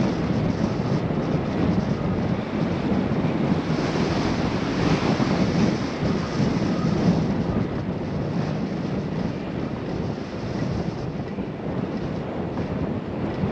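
Wind rushing over the GoPro's microphone during a bicycle ride: a steady, noisy rush, heaviest in the low range, easing slightly after about eight seconds.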